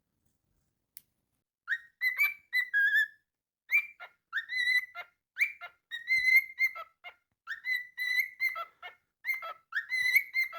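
Cockatiel whistling a tune: a quick run of short, clear whistled notes, many starting with a little upward slide, beginning a couple of seconds in.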